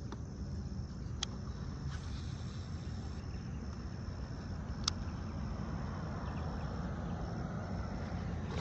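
Outdoor ambience: a steady low rumble of wind or water with a steady high-pitched insect trill above it, and two sharp clicks, about one second and five seconds in.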